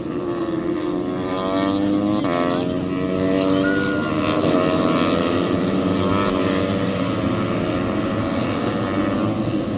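MotoGP race motorcycles' engines at high revs, several at once, their pitch climbing and dropping as they accelerate and shift through the gears. They grow louder about a second and a half in.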